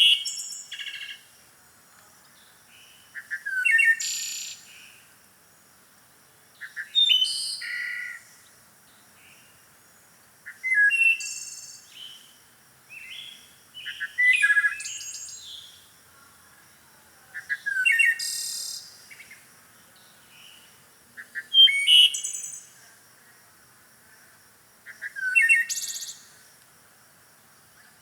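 Bird song: short phrases of high chirps, each ending in a higher trilling run, repeated about every three to four seconds with quiet gaps between.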